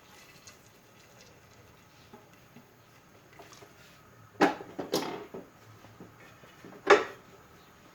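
Kitchen clatter: three sharp knocks of utensils, dishes or a cupboard being handled, two close together a little past halfway and a third near the end.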